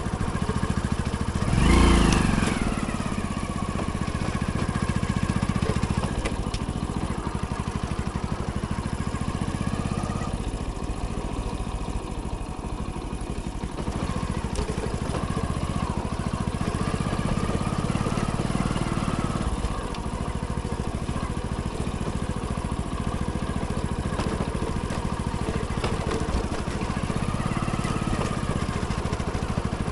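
Hero Splendor's small single-cylinder four-stroke engine running under way, its pitch rising and easing a few times as the throttle changes. About two seconds in, a brief loud sound slides down in pitch over the engine.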